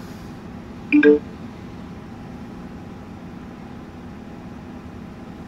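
A car wash pay kiosk gives a short electronic beep about a second in, over a steady low hum.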